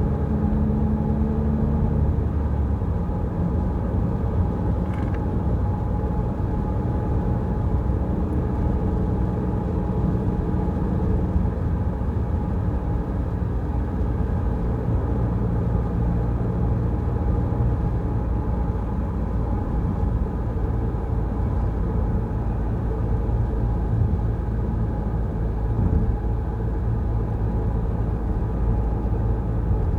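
Peugeot Rifter driving on the road: a steady low rumble of engine and tyres, with the engine note shifting in the first few seconds.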